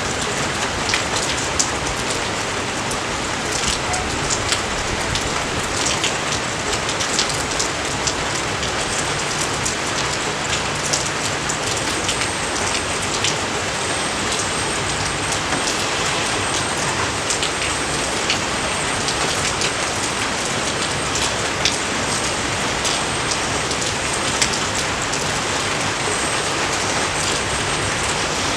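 Steady rain falling on rice paddies, a continuous hiss of rainfall with many scattered, sharper drop impacts close by.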